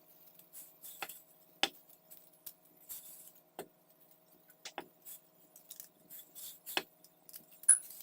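Kitchen utensils and dishes clinking: a handful of sharp, irregular clicks and knocks, the loudest a brief high ping near the end, over a faint steady hum.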